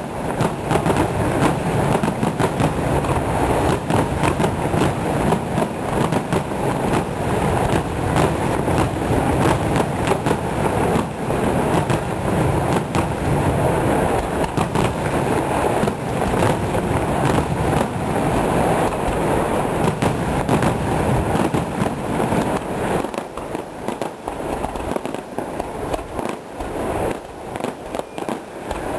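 A dense fireworks barrage: rapid, overlapping bangs and crackle with no break, thinning to sparser, separate reports about 23 seconds in.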